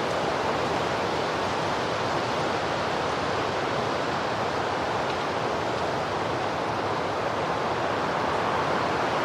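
Strong wind blowing in a dust storm: a steady, even rush.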